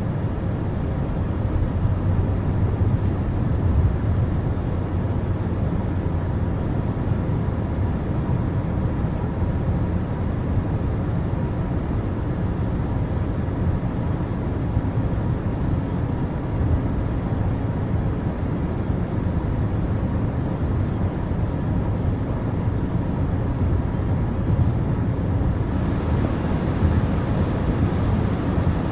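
Car driving along the road: steady engine and tyre noise, with a little more hiss near the end.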